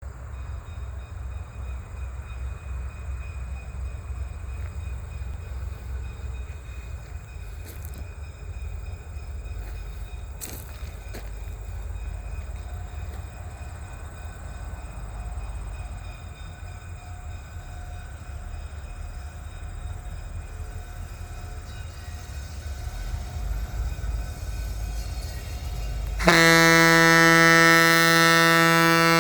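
Vintage passenger train running with a steady low rumble. Near the end a loud, single-pitched horn blast starts suddenly and holds.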